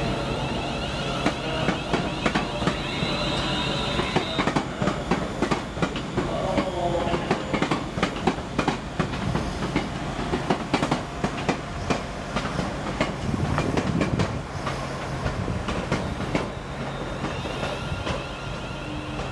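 A train moving out of the station, its wheels clicking over rail joints and points in a long irregular run of clicks, over a steady low hum.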